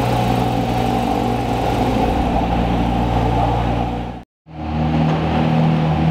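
Porsche 992 GT3 RS's flat-six running at low, steady revs. About four seconds in the sound cuts off sharply, and after a brief silence a McLaren Senna's V8 runs at low revs with a higher, steady drone.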